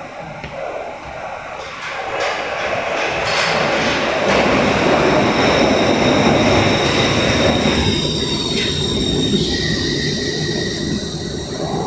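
Glasgow Subway Stadler train running into a station: a broad rumble that builds over the first few seconds, then steady high-pitched wheel squeal in the second half as it comes in.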